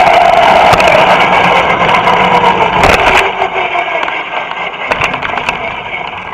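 Vintage 6.1 cubic-inch two-stroke go-kart engine, heard from onboard, winding down as the kart slows. Its pitch falls and it fades steadily, with a few sharp clicks along the way.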